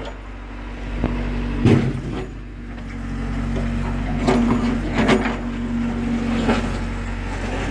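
John Deere 310D backhoe loader's diesel engine running steadily while digging, with several sharp metal clanks from the bucket and boom, the first about a second and a half in and more in the second half.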